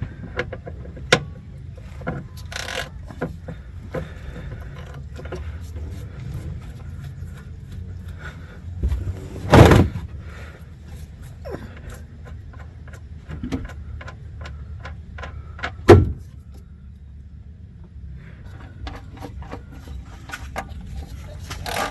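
Scattered clicks, clunks and rattles of hand work and tools on a vehicle, with two loud knocks, one about ten seconds in and one about sixteen seconds in, over a low steady hum.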